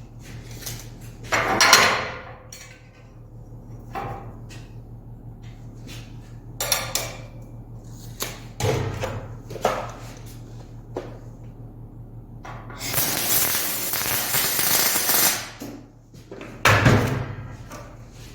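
Aluminum stock and parts being handled, with several sharp clanks and knocks. Past the middle, a loud steady hiss lasts about two and a half seconds.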